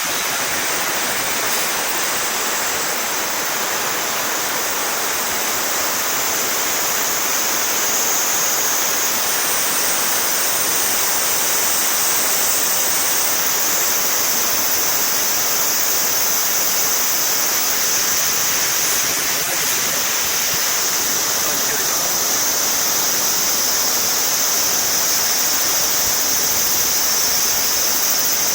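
Kise River swollen into a fast, muddy flood after heavy rain, its water rushing in a steady, loud, unbroken noise.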